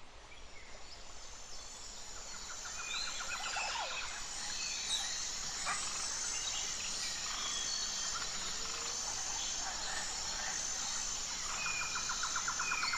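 Outdoor ambience of birds calling and insects chirping: steady high repeated chirps, rapid trills and short whistles over a soft hiss, fading in over the first few seconds.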